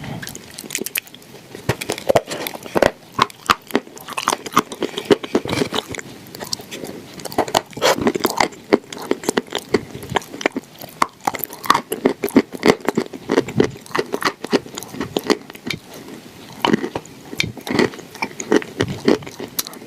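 Close-miked crunching bites and chewing of dry, brittle food, with many sharp crunches in quick succession.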